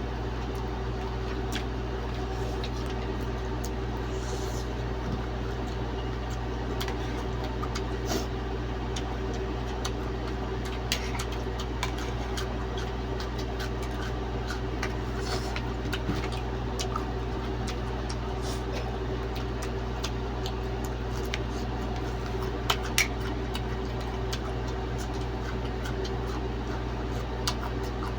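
A steady mechanical hum, like a fan or air conditioner running, with scattered small clicks and taps from eating during a mukbang.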